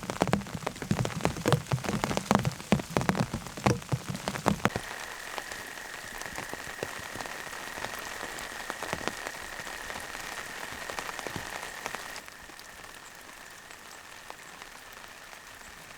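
Rain: for the first five seconds or so, big drops and drips land loudly one after another, then it settles into a steady patter with a thin steady high tone over it, getting quieter about twelve seconds in.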